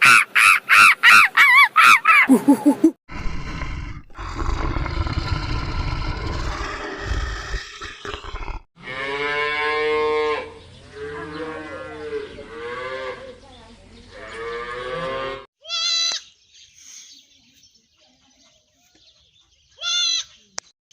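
A run of farm animal calls: a quick series of pulsed calls at the start, then several long mooing calls that rise and fall, and two short bleats near the end.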